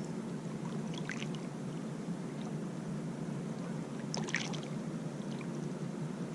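Water lapping and trickling around a kayak, with two brief splashes, one about a second in and one a little past the middle.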